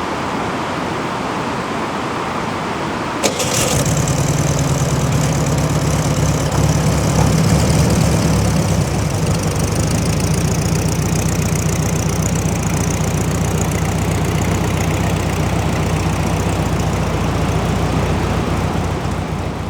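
A campervan's engine starts about three seconds in, with a short click just before it catches, then runs at a steady idle. A constant hiss sits under it throughout.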